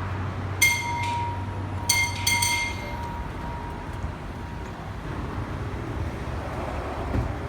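Three short high-pitched electronic beeps, one then two in quick succession, over a steady low hum and rumble of shop and vehicle noise.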